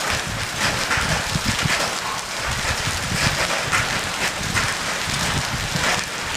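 Hail and rain falling hard: a dense, steady patter of many small impacts, with a low rumble underneath.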